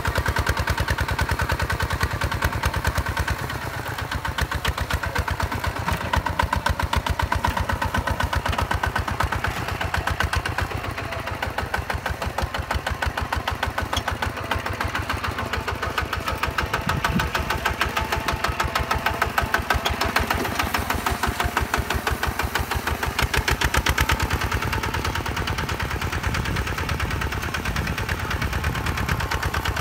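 Hinota HG Gold 155 DI single-cylinder diesel engine running steadily, its exhaust chugging in rapid, even pulses.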